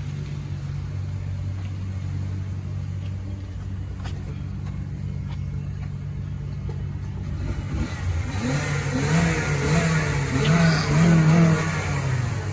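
Stock exhaust of a 2007 Honda Civic EX with its R18 1.8-litre four-cylinder, idling steadily, then revved in several quick blips from about eight seconds in.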